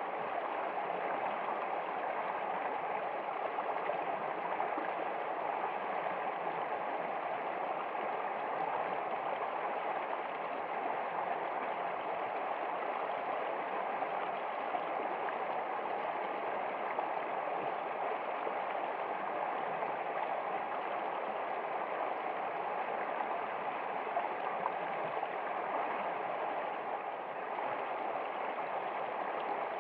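Steady flowing water, an even rushing and gurgling that does not change.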